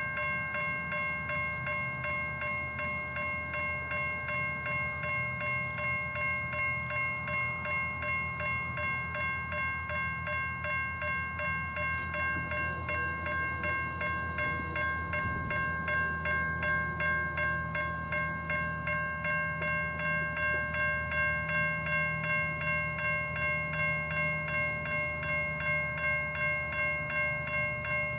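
Level crossing's Safetran Type 3 electronic bells ringing, a rapid, even repeating ding of several pitches that signals the crossing's activation for an approaching train. Under it runs a low steady rumble that grows a little louder about halfway through.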